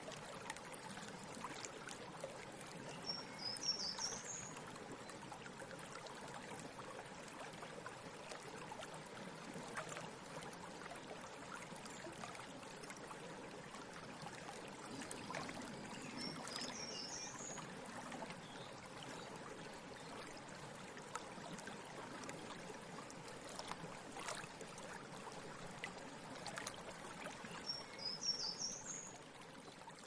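Steady rushing woodland background noise with a short, high-pitched bird phrase three times: about four seconds in, midway, and near the end.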